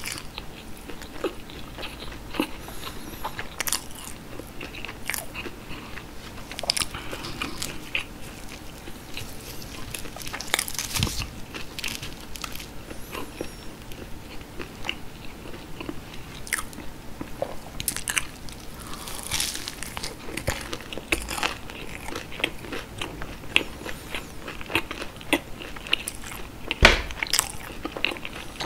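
Close-miked chewing and biting of breaded fried cheese sticks: the crumb coating crunches in many small, crisp crackles with wet mouth sounds. One louder, sharp click comes near the end.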